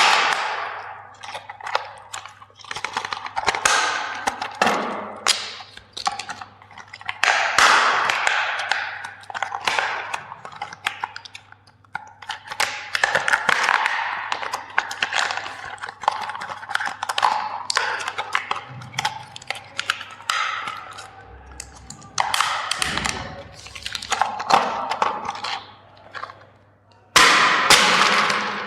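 Plastic toys and their packaging being handled, with irregular crackling, snapping and clattering throughout and a faint steady low hum underneath.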